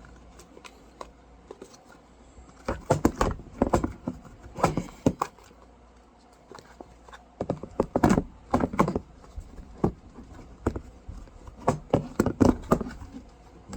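Handling noise from a tissue case being wiped clean with a cloth: clusters of short knocks, taps and rubbing as it is turned and handled, with quiet gaps between.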